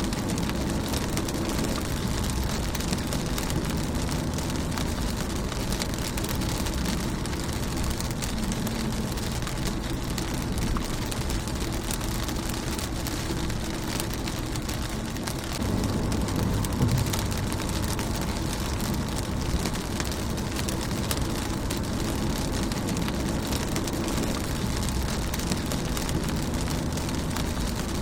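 Steady rain falling on a car's windshield, many individual drops tapping on the glass over a continuous rain hiss. A low rumble underneath grows louder a little past halfway.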